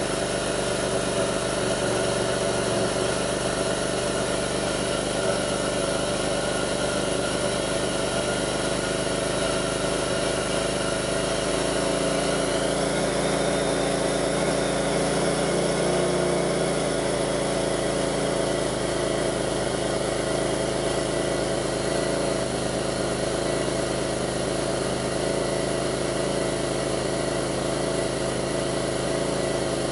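2002 Pontiac Grand Prix's 3800 V6 idling steadily, its tone shifting a little about halfway through. This is the rough, bogging idle the owner is chasing, which he links to a faint intermittent thumping that pulls the idle down and an overheating alternator.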